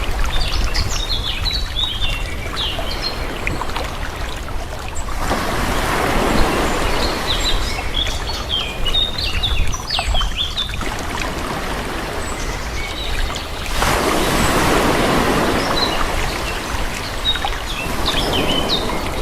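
Calm sea waves washing in and drawing back, two slow swells of surf about five seconds and fourteen seconds in, over a steady low rumble. Small birds chirp throughout.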